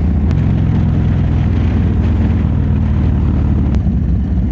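Harley-Davidson V-twin motorcycle engine running at a steady pace while riding, with wind rushing over the microphone.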